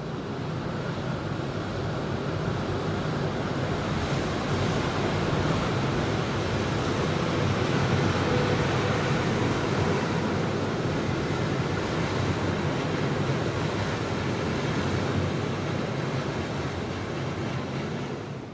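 Steam-hauled passenger train running across a steel girder bridge: a steady rumble of wheels and coaches that grows louder over the first several seconds and fades near the end as the last coach leaves the bridge.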